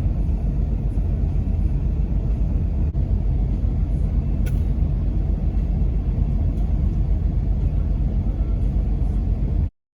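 Steady low rumble with a faint click about four and a half seconds in, cutting off abruptly near the end into silence.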